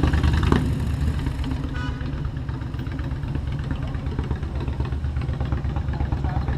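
Motorcycle engine idling with a steady low pulsing; a short high tone sounds about two seconds in.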